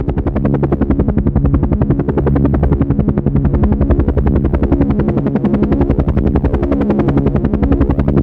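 Helicopter rotor blades chopping rapidly and steadily over the drone of the turbine.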